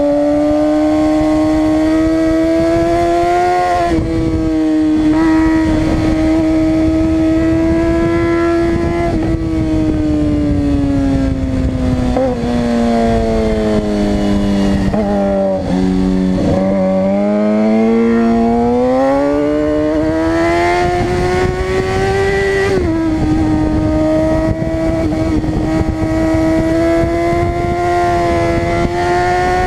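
Suzuki GSX-R600 inline-four engine running at high revs over a steady rush of noise. Around the middle the revs fall away, with a few short blips, then climb back up and hold steady again.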